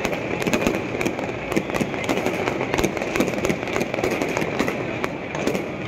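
Fireworks and firecrackers going off: a dense, continuous run of sharp cracks and pops at irregular intervals.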